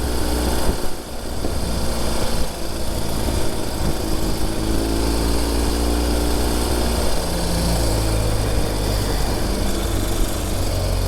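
Ural Gear Up sidecar motorcycle's air-cooled boxer twin running under way, its engine note shifting in pitch a few times, with a steady hiss over it.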